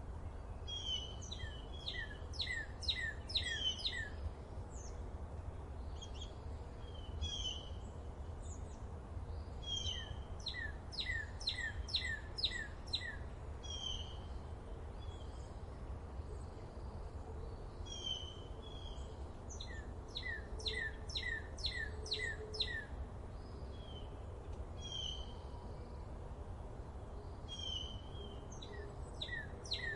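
A songbird sings a repeated phrase: a few short notes, then a fast run of about six sharply falling notes, coming back about every nine seconds. Under it runs a steady low rumble.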